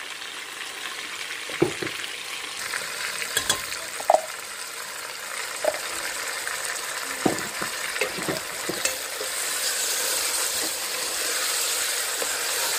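Chicken frying in a pot with pulao masala and blended tomato paste, sizzling steadily while a spoon stirs it and knocks against the pot several times. The sizzle grows louder about nine seconds in.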